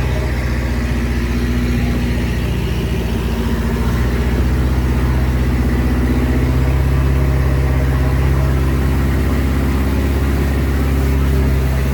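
Boat engine running steadily under way.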